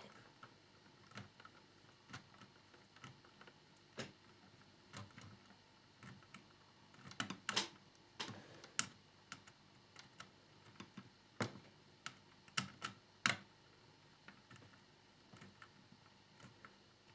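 Irregular light clicks and taps of small plastic model parts and a small screwdriver being handled while the fairing is screwed in place, with a few louder clicks about seven to nine seconds in and again around eleven to thirteen seconds.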